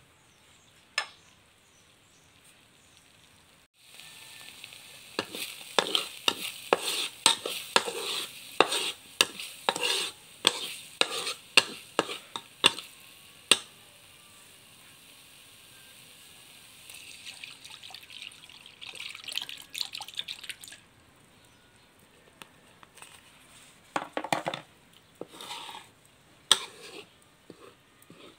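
Panang curry paste sizzling as it fries in a metal wok, starting about four seconds in, with a metal spatula scraping and knocking against the pan in quick strokes. Near the end it goes to a few separate scrapes and taps of the spatula.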